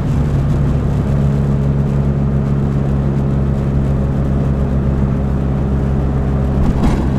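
Dodge Neon SRT-4's turbocharged 2.4-litre four-cylinder engine cruising at a steady speed with road noise, heard from inside the cabin.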